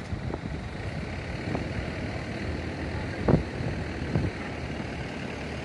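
Fire truck engine running steadily, with a few short knocks; the loudest comes a little past the middle.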